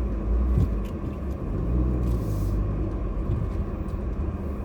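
Passenger car driving, heard from inside the cabin: a steady low engine and road rumble, with a brief hiss about two seconds in.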